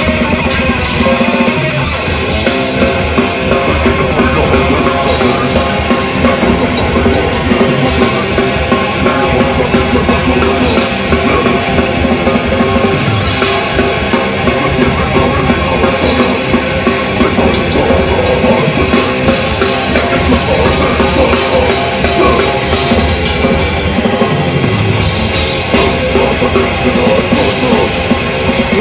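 Death metal band playing live at full volume: a pounding drum kit with bass drum under distorted electric guitars.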